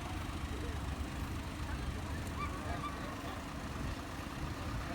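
Low, steady rumble of idling diesel truck engines, with a few faint, short wavering calls over it about two to three seconds in.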